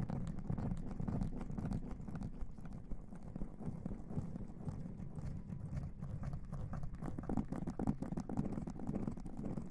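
Muffled, close-miked rubbing and scratching with soft irregular taps, an ASMR rustling or hair-washing trigger worked right on the microphone.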